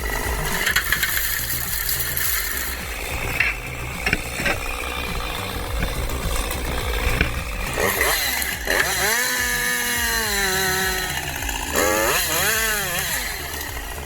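Two-stroke chainsaw running, its engine note dropping for a couple of seconds about nine seconds in, then revving up and down again near the end.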